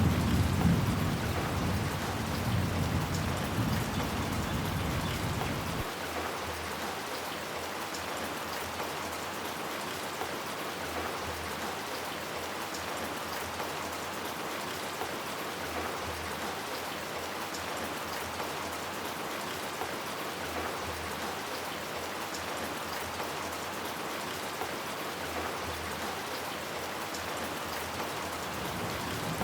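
Steady rain falling, with a low rumble of thunder that dies away about six seconds in, leaving only the even hiss of the rain.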